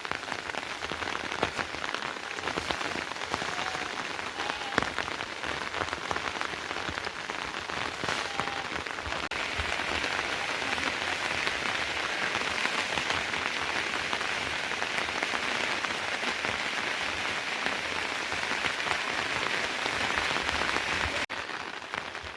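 Steady rain falling, an even hiss that becomes a little heavier and denser about nine seconds in.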